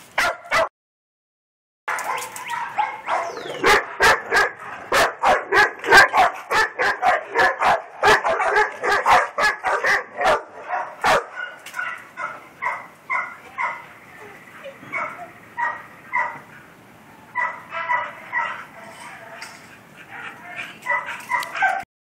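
A dog barking over and over: fast, near-continuous barking for the first half, then slower barks in short groups.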